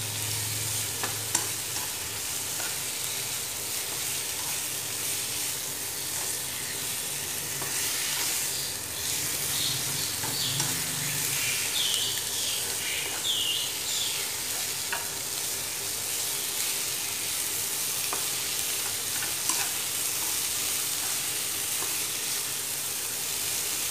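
Frog pieces sizzling as they stir-fry over high heat in a nonstick pan, seared to firm up the meat, with scattered taps and scrapes of chopsticks turning them.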